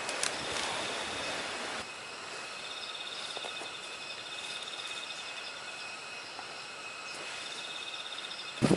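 Insects trilling in the background: a steady high-pitched tone with a pulsing high trill that starts, stops and starts again. During the first couple of seconds an even hiss of noise covers it.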